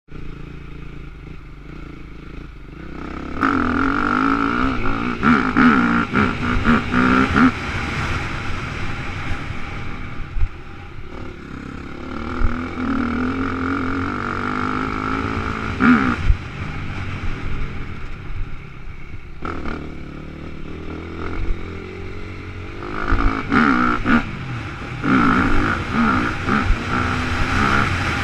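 Motocross dirt bike engine revving hard and backing off again and again, its pitch rising and falling with the throttle, heard from a helmet-mounted camera. It is quieter for the first few seconds, then runs loud in long pulls with brief drops between.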